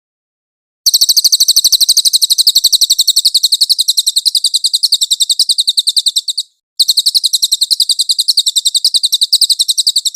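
Cililin song: a loud, very rapid trill of evenly repeated high-pitched notes. It starts abruptly about a second in, breaks off briefly about two-thirds through, and resumes.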